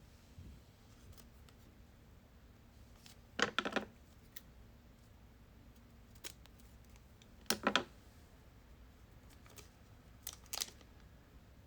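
Short plastic clicks and rustles of a trading card being slipped into a penny sleeve and a hard protective case, in three brief bursts with a few faint ticks between.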